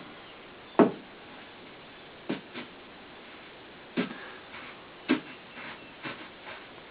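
Mason twine being sawed back and forth through the adhesive behind a truck's fender emblem: a faint rubbing with a handful of short, sharp ticks at irregular intervals, the loudest about a second in.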